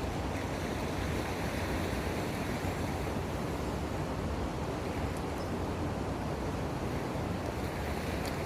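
Steady noise of wind and sea waves, even throughout, with no distinct events.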